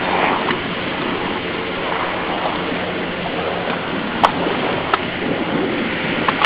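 Steady rush of water and wind with the low, even drone of a jet ski engine out on the water, and three short sharp clicks in the second half.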